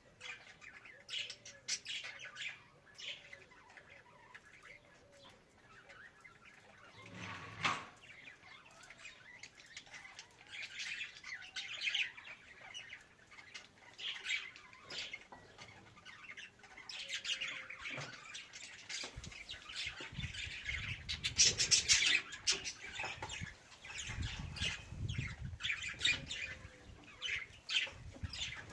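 Budgerigar chattering, with rapid short chirps, warbles and squawks throughout. In the second half, a low rumbling noise comes and goes under the chirping.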